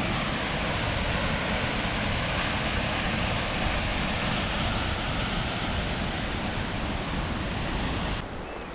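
Waterfall, a steady loud rush of falling water, cutting off suddenly near the end.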